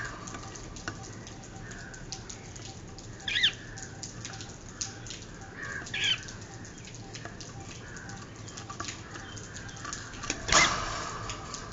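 Cockatiel chick giving short, shrill squawks, two clear ones about three and six seconds in, with fainter chirps and small clicks between. Near the end a sudden loud burst of noise cuts in.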